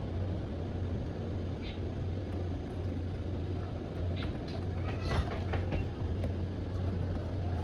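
Steady low hum with a few light clicks and taps from computer parts being handled and fitted into the case.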